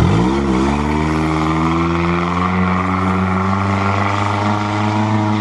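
A 1992 Toyota Corolla's four-cylinder engine revved hard: it climbs sharply in pitch right at the start, wobbles briefly, then holds steady at high revs under full throttle as the car drives across sand toward a steep hill climb.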